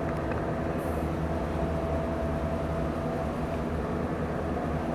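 Car ferry's engines running steadily, heard from the vehicle deck: an even low drone with a faint steady whine over it.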